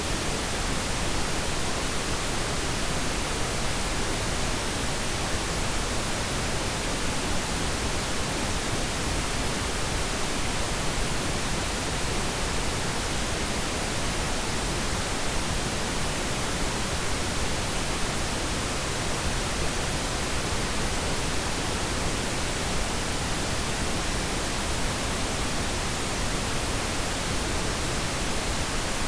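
Steady, unchanging pink noise: an even hiss spread across all pitches, softer in the highs than white noise.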